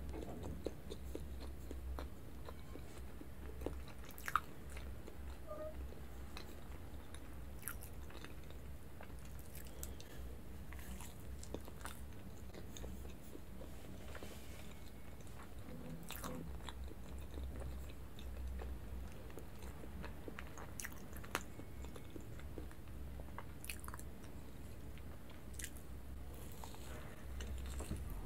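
Close-miked chewing of soft layered sponge cake with whipped cream: small wet mouth clicks and smacks scattered throughout, over a steady low hum.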